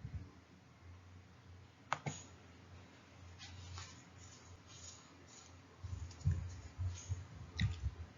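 Faint scattered clicks and soft low knocks: one sharp click about two seconds in, then a cluster of soft bumps near the end.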